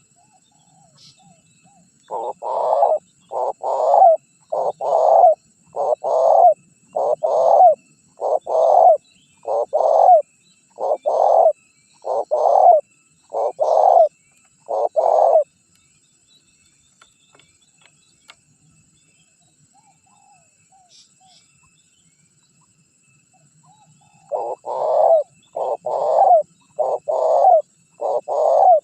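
Spotted dove (tekukur) cooing: a long run of repeated coo notes for about thirteen seconds, a pause of about nine seconds, then the cooing starts again near the end. It is a gacor tekukur call used as a lure to get wild doves to answer.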